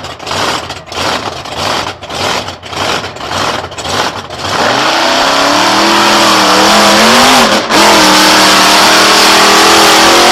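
A big racing engine revved in short sharp blips about twice a second, then held at high revs at a steady pitch from about four seconds in.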